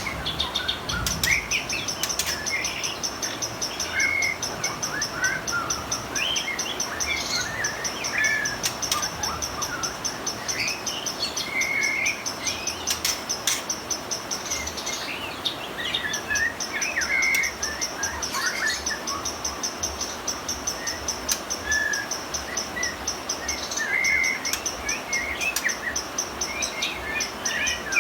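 White-rumped shama (murai batu) singing: long runs of a rapid, high, pulsed trill (the 'trotol' style prized by bird-contest fans), broken now and then, with short whistled and warbled notes between them.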